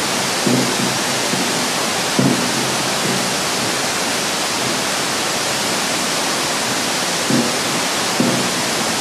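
Waterfall roaring steadily, with a few short, low pitched sounds rising above it several seconds apart.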